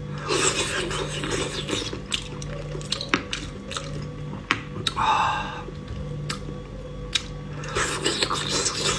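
Close-miked chewing and wet mouth sounds of someone eating raw seafood: irregular smacks, squishes and sharp clicks, with a faint steady hum underneath.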